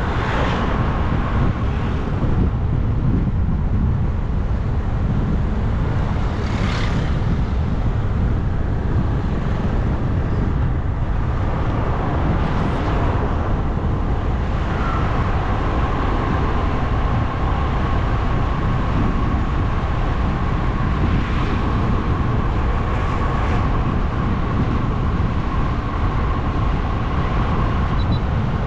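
Wind rush and road noise from riding a motorbike along a road, a steady low rumble with a few brief swells. A thin steady whine joins about halfway in and stops just before the end.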